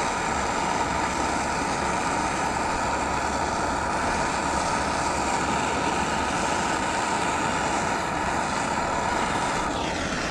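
Handheld gas torch burning with a steady roar while it heats a copper fitting on a shower valve for soldering; the flame shuts off near the end.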